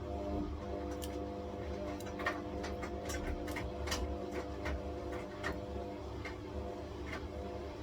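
Washing machine running a wash with a puffer body warmer in the drum: a steady motor hum and whine, with irregular light clicks and ticks scattered over it.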